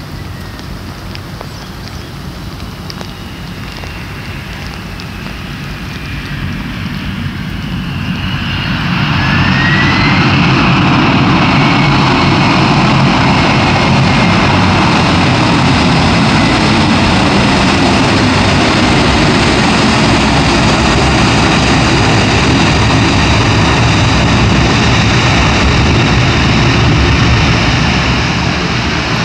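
Jet airliner engines spooling up into reverse thrust on the landing roll. The broad rushing engine noise builds over the first several seconds, with a brief rising whine as it climbs, then holds loud and steady and eases slightly near the end.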